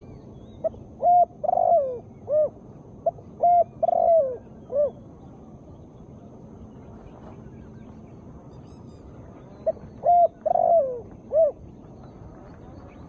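Female spotted dove cooing: three phrases, each a short note and then a few coos, one of them longer and falling in pitch. The first two phrases come close together, and the third comes after a pause of about five seconds.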